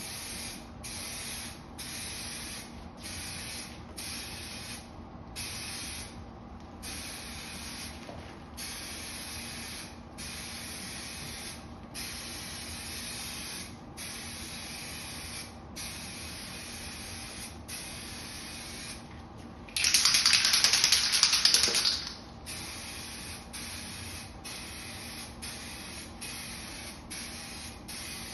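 Aerosol can of Eastwood 2K clear coat spraying in repeated hissing passes about a second long with brief gaps, laying on a heavy coat. One much louder burst comes about twenty seconds in.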